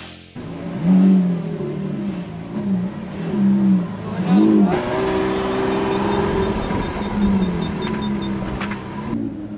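Lamborghini Sián's V12 engine revving in several short rises and falls, then running steadier as the car pulls away.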